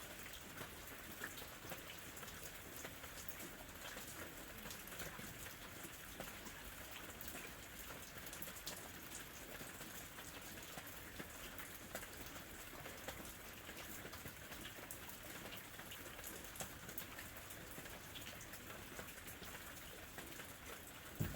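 Gentle summer rain falling steadily, an even hiss scattered with many small drop ticks, with one louder tap near the end.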